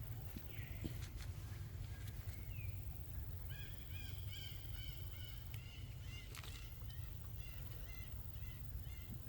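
An animal making a run of short, nasal, evenly repeated calls, beginning about a third of the way in and continuing to near the end, over a steady low rumble.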